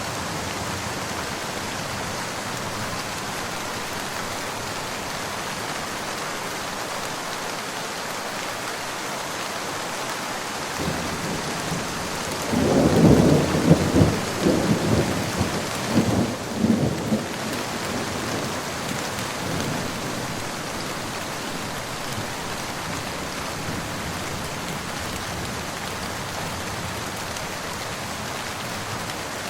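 Steady rain falling, with a thunderclap about halfway through: a loud rumble with several crackling peaks over a few seconds that dies away under the rain.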